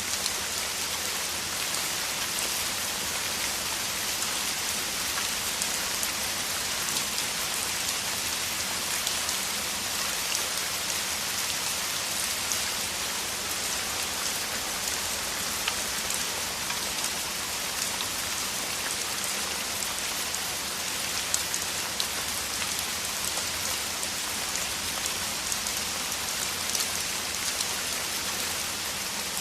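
Heavy rain falling steadily, a dense even hiss with single drops striking close by now and then.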